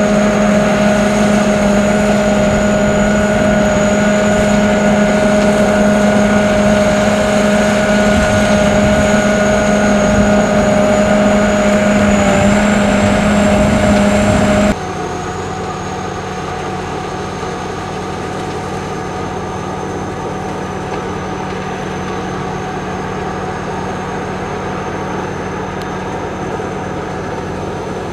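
Sakpattana SS-200 mini combine harvester running steadily, engine and harvesting mechanism together with a constant high whine. About fifteen seconds in the sound drops abruptly to a quieter, different steady running.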